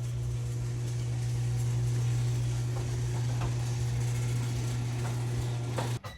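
A motor running steadily at one unchanging pitch, a low hum with a faint hiss over it, cut off abruptly near the end.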